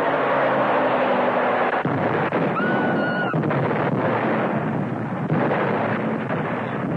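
A car engine running gives way, about two seconds in, to a long dense rumble of a blast and rock avalanche. It is an early-1930s film sound effect, with a brief high tone about three seconds in.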